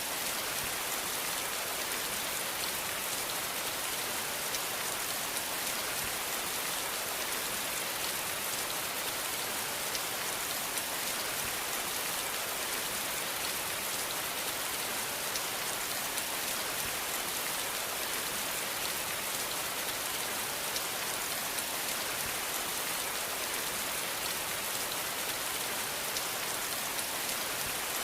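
Steady rain falling on a surface, a dense even hiss made up of many fine drop patters, with no thunder.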